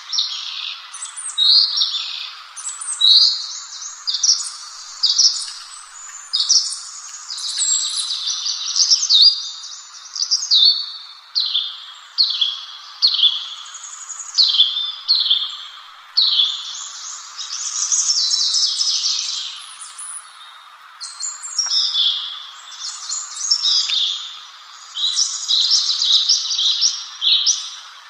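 A songbird singing continuously in rapid phrases of high, quickly falling chirps and trills, with hardly a pause. A steady faint hiss runs underneath.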